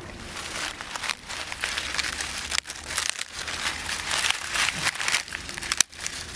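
Continuous crinkling, rustling noise made of many small crackles, with brief breaks about two and a half seconds in and again near the end.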